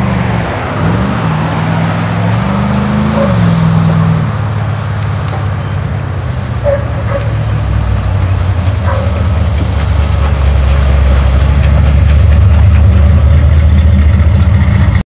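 Plymouth Barracuda's 440 V8 revving hard under wheelspin: the pitch swings up and down over the first few seconds, then holds at high revs and grows louder until it cuts off suddenly near the end.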